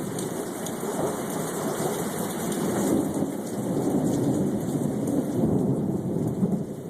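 Thunderstorm: steady rain with a low rumble of thunder that swells a few seconds in and eases near the end.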